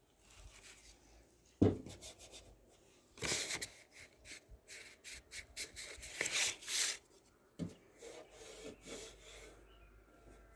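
Handling noises: irregular rubbing and scraping with a few sharp knocks, the loudest knock about one and a half seconds in.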